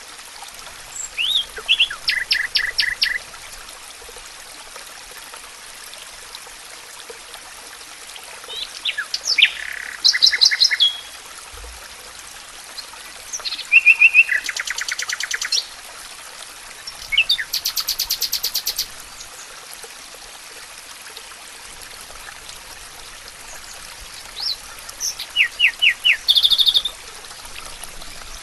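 A songbird singing in short phrases of quickly repeated, trilling notes, each about two seconds long, five times over, with long pauses between them. Underneath is a steady background hiss.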